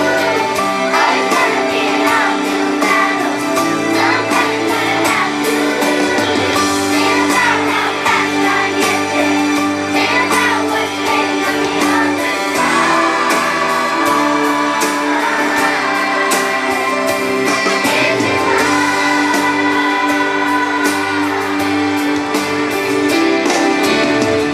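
Children's chorus singing with instrumental accompaniment, including long held notes.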